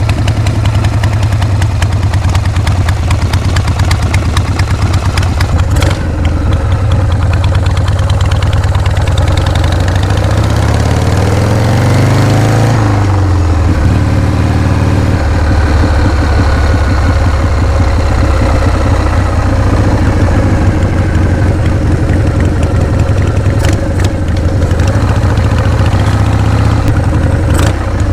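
Harley-Davidson Shovelhead V-twin engine running with a steady low beat, revving up once about ten seconds in and dropping back to idle.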